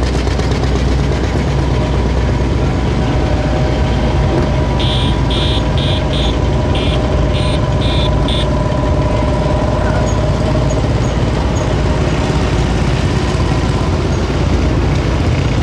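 Engines of vintage motorcycles and a scooter running steadily as they ride along in a group. Midway, a run of short, high-pitched tones repeats about twice a second for a few seconds.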